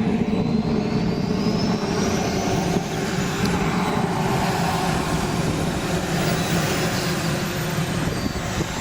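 JetCat P120 model jet turbine of an RC jet running steadily, with a thin high whine that slowly rises in pitch and later falls.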